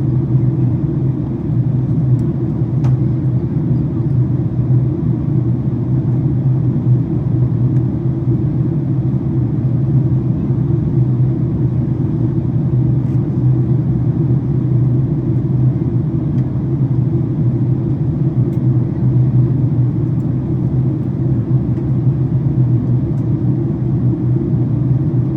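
Steady low rumble of engine and airflow noise heard inside the passenger cabin of a Boeing 767-400ER airliner during its descent.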